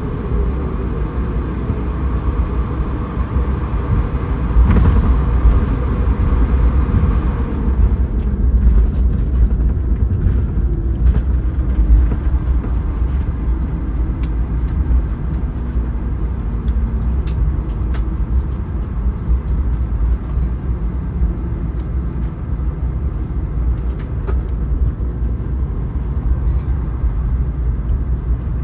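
Cabin noise inside an Airbus A220-300: a heavy, steady rumble with the whine of its Pratt & Whitney PW1500G engines slowly falling in pitch over the first half, then settling, with a few light rattles.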